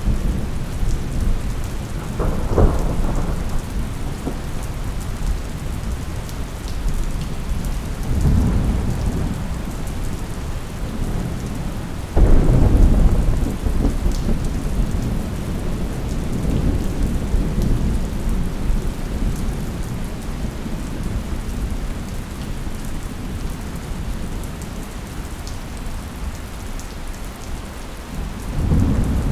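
Steady rain with rolling thunder: a sharp crack about two and a half seconds in, a sudden loud rumble about twelve seconds in that slowly dies away, and another rumble building near the end.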